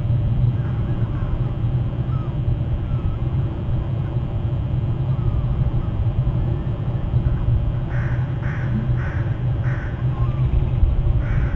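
Steady low rumble throughout, with a run of four short, harsh bird calls about eight seconds in and another near the end.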